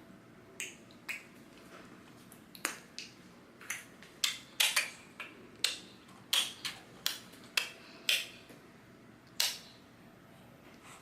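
A baby making short, sharp clicking sounds, more than a dozen irregularly spaced clicks, some in quick pairs.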